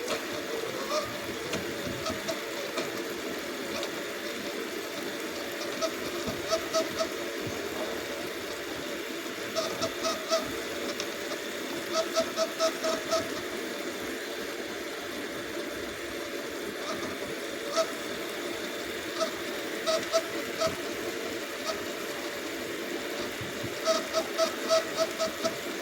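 Waterfowl honking in runs of short, quick calls, about four or five a second, that come again and again over a steady background hiss.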